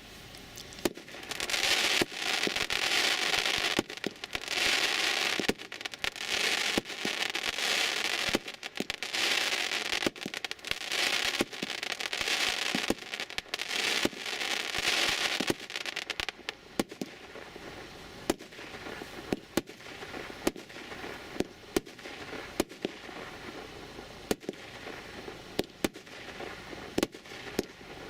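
A 160-shot, 30 mm fireworks cake firing in a long run of sharp shots. For roughly the first half, loud noisy swells fill the gaps between the shots; after about 16 seconds it thins to separate shots.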